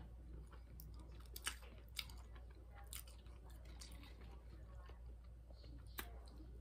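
Faint chewing of a breaded fried flounder sandwich, with a few soft mouth clicks scattered through.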